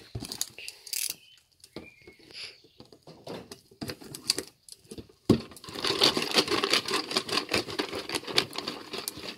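Paper name slips rattling inside a lidded cardboard shoebox as it is shaken: a few scattered taps at first, then a steady, continuous rattle from about halfway through.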